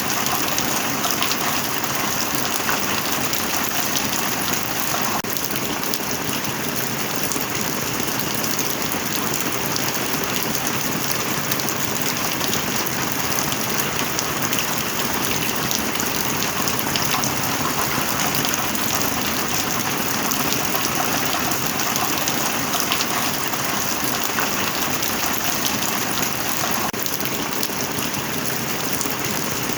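Heavy rain falling steadily, a dense, even hiss of drops without letup.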